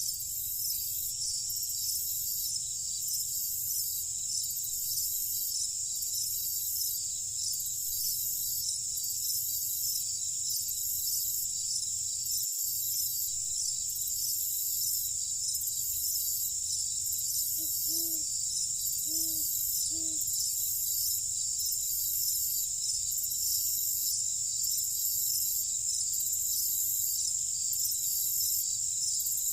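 Dense, steady high-pitched chorus of night insects such as crickets, with an even pulsing about once a second. About two-thirds of the way through, three short low calls sound in quick succession.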